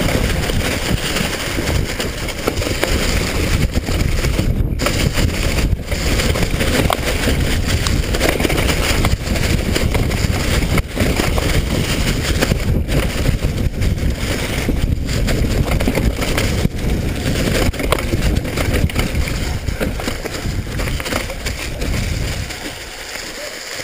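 Steady rushing noise with a heavy low rumble, like wind buffeting a small camera microphone. It drops away sharply near the end.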